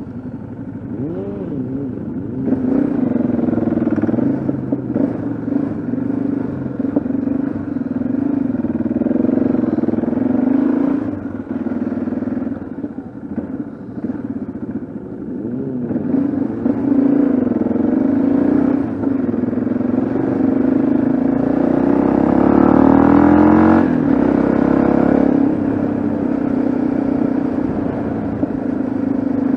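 Yamaha XT660Z Ténéré's single-cylinder engine running at riding speed, its pitch rising and falling with the throttle. Near the end the revs climb steadily, then drop suddenly at a gear change.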